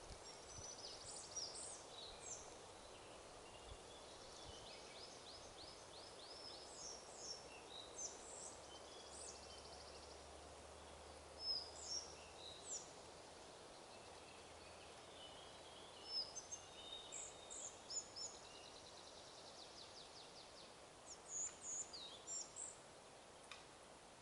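Forest songbirds calling: short, high chirps and several fast trills, over a steady, faint hiss of wind in the trees.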